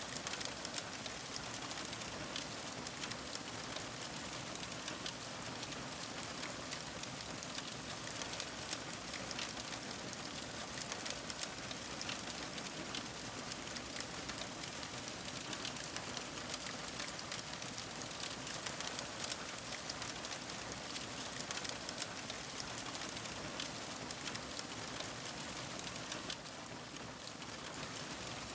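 Wood fire crackling: a steady hiss thick with many small sharp pops and snaps.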